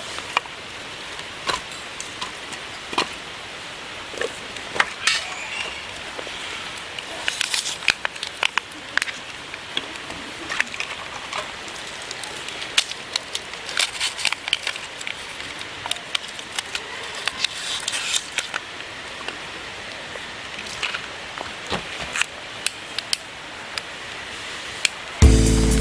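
Wood campfire crackling, with irregular sharp pops over a steady hiss. Music starts just before the end.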